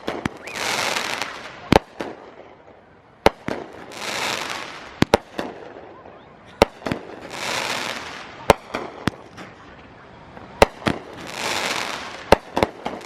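Big consumer firework firing shot after shot: sharp bangs scattered through, with about a second of hissing, sparkling noise roughly every three to four seconds, four times.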